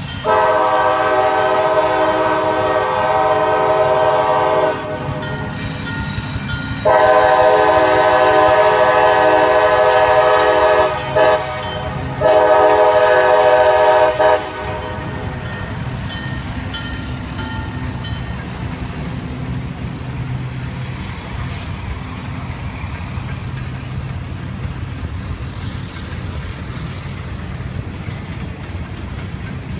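Freight locomotive's multi-chime horn sounding long, long, short, long, the grade-crossing signal. Then the train's tank cars roll by with a steady rumble and wheel clatter.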